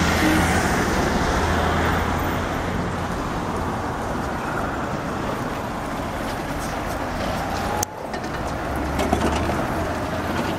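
Street traffic with a trolleybus running by: a steady dense noise with a low hum, cut off abruptly about eight seconds in and then resuming.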